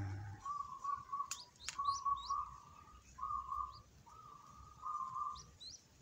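Bird calls: a run of five or six steady, squeaky mid-pitched notes, each under a second long, with a few short, high rising chirps over them. A brief low thud comes right at the start.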